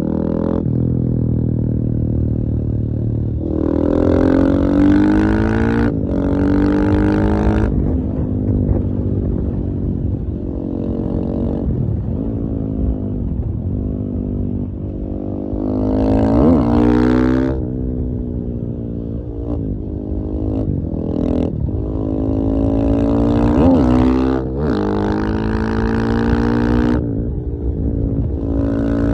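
KTM 450 EXC-F's single-cylinder four-stroke engine running and revving, its pitch rising and falling again and again, with louder throttle bursts about four seconds in, around the middle, and near the end.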